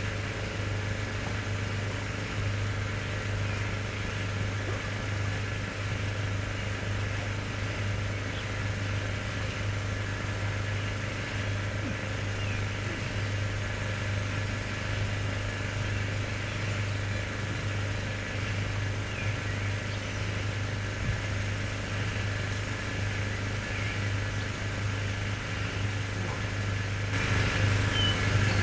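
A motor or engine running steadily with a constant low hum, growing a little louder near the end.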